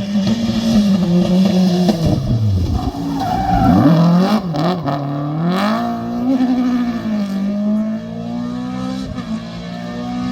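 Rally car engine at high revs. About two to three seconds in the pitch drops sharply as the car lifts and slows, then the revs climb again and hold as it drives on.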